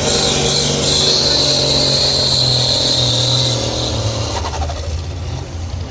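Pulling tractor's engine running hard at steady high revs with a high whine over it; the whine stops about three and a half seconds in and the engine eases off soon after.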